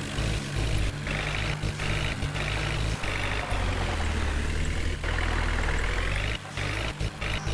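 Heavy diesel engine of earthmoving or farm machinery running steadily, with a higher whine that dips and rises again near the middle.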